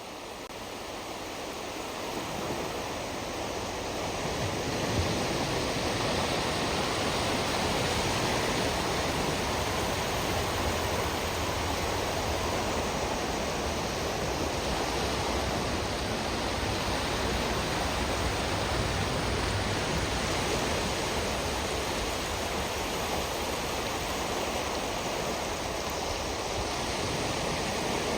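Steady, even wash of surf on a saltwater shoreline, swelling up over the first few seconds and then holding level.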